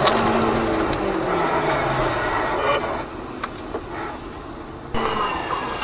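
Car engine and road noise heard from inside a moving car, with a low tone falling away in the first couple of seconds, growing quieter about three seconds in, and changing abruptly near the end.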